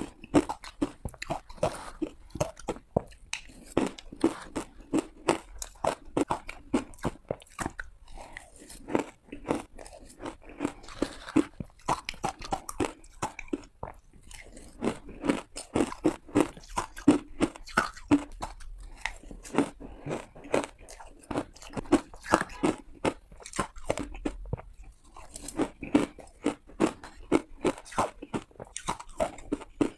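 Close-up crunching of ice being bitten and chewed: rapid sharp cracks many times a second, coming in runs of bites with brief pauses.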